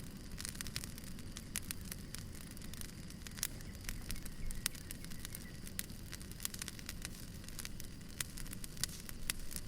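Firewood burning: a steady low rumble of flames with frequent sharp, irregular crackles and pops.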